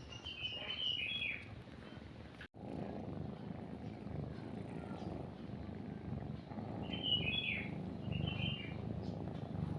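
Cat purring as a steady low rumble, which briefly cuts out and comes back louder about two and a half seconds in. Bird chirps sound in two short bursts, about half a second in and again about seven seconds in.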